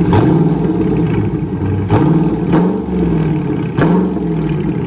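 Dodge Charger Scat Pack's 392 HEMI V8, with the mid-muffler deleted but the resonators still on, idling and revved in about four short partial-throttle blips, each rising and falling back to idle.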